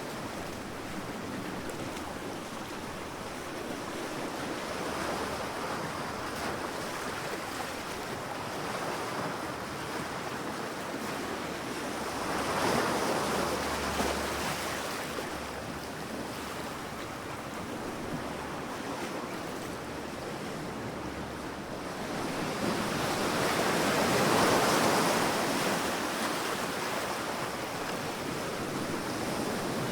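Sea waves washing onto a sandy beach: a steady rushing surf that swells twice, about a third of the way in and again past two thirds, as waves break and run up the sand.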